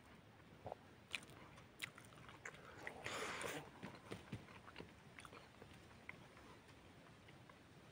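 Close-up chewing of a mouthful of rice and chicken: faint, scattered wet mouth clicks and smacks, with a brief rush of noise about three seconds in.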